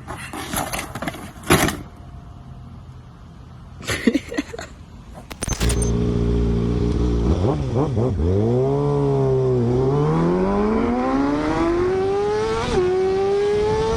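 A few brief scrapes and knocks, then from about six seconds in a motorcycle engine runs loudly, dips in pitch, and accelerates with its pitch climbing steadily, breaking briefly for a gear change near the end before climbing again.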